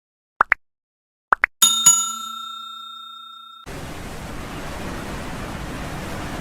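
An intro sound effect: two pairs of quick rising blips, then a bell-like chime struck twice that rings on and fades over about two seconds. About three and a half seconds in it cuts to a steady rushing noise.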